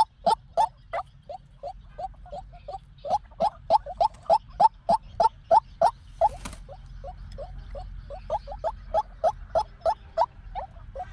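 White-breasted waterhen calling, a long monotonous series of short notes repeated about three times a second. A single sharp click is heard about six seconds in.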